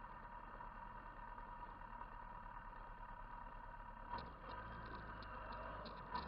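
Faint motorcycle engine running. A low rumble comes up after a click about four seconds in and holds until near the end.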